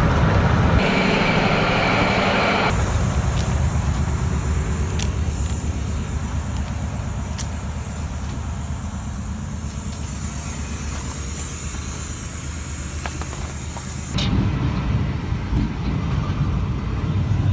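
Steady low rumble and noise of a train rolling on steel rails. The sound changes abruptly about three seconds in and again near the end, with a higher hiss over the rumble in the first few seconds and a few sharp clicks through the middle.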